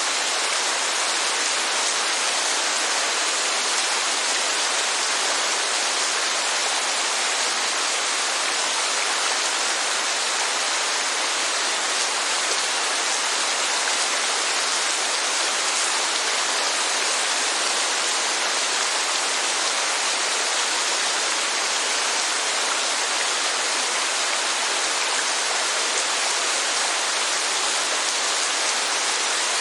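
Steady rainfall, a constant even hiss of water with no single drops or changes standing out.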